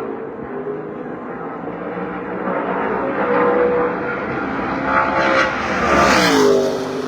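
NASCAR race truck's V8 engine running at speed on the oval; the sound builds, and about six seconds in a truck passes close, loudest there, with its engine note dropping as it goes by.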